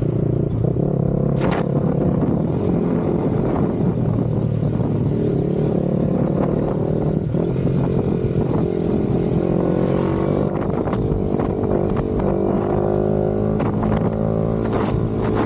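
Yamaha R15 V4M's 155 cc single-cylinder engine running through an aftermarket M4 exhaust, a steady exhaust note that shifts a little in pitch in the second half.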